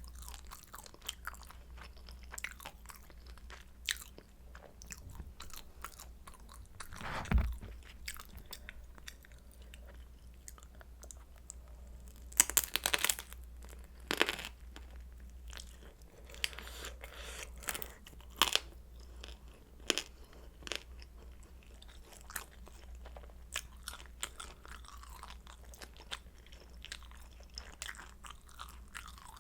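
Crunching and chewing of crispy pan-fried kimchi dumplings: scattered crisp bites and crackles, with the loudest run of crunches about twelve to thirteen seconds in and a low thump about seven seconds in.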